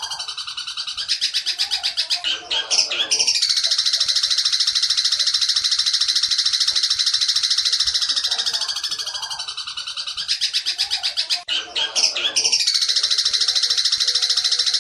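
Long-tailed shrike (cendet) song in the fast 'petir' style: a loud, dense run of rapid high chattering notes. Its phrasing breaks and shifts briefly about two seconds in and again near eleven seconds, as if the same passage repeats.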